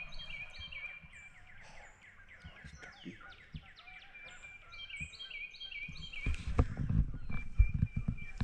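Several songbirds singing together, with quick series of short repeated whistled notes overlapping. From about six seconds in come low thuds and rustling, louder than the birdsong.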